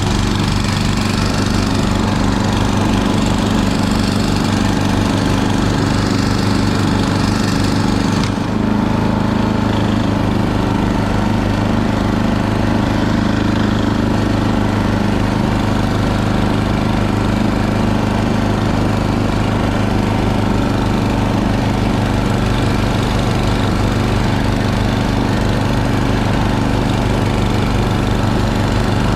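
A heavy snow blower's small engine running steadily under load as it clears deep snow. The sound shifts abruptly about eight seconds in, the high hiss dropping away.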